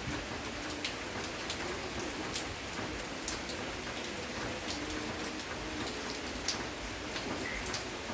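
Steady rain falling, with single drops ticking sharply at irregular moments close by.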